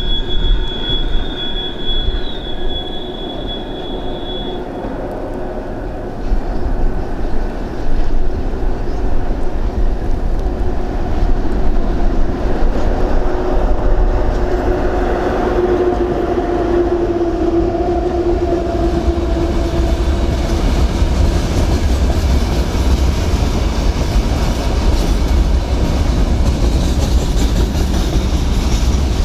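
A train running past on the rails with a steady low rumble and clickety-clack of wheels. A high steady squeal carries through the first four seconds or so, and a lower steady tone rises out of the rumble around the middle.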